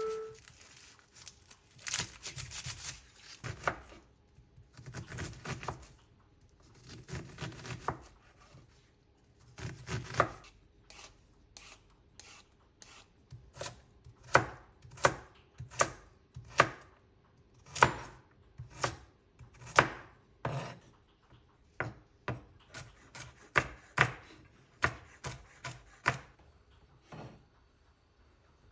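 Knife chopping food on a cutting board. It starts with a few uneven rubbing, scraping strokes, then goes into a run of separate chops, roughly one to two a second, in the second half.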